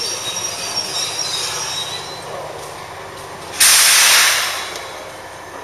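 Electric train at a station: faint high wheel squeal at first, then a sudden loud burst of compressed-air hiss about three and a half seconds in that dies away within a second.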